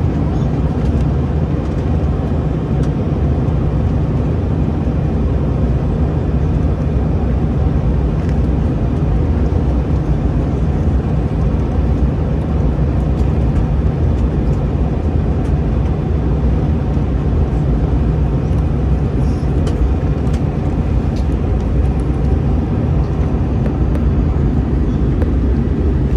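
Steady, even cabin noise inside an Airbus A321-211 airliner: the jet engines running and the air system hissing, with no change in pitch or level.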